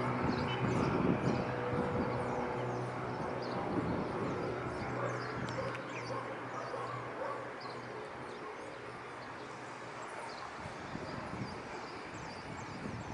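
Cirrus SR22's six-cylinder piston engine idling, its steady hum fading and weakening about halfway through. Many short, high chirps run over it throughout.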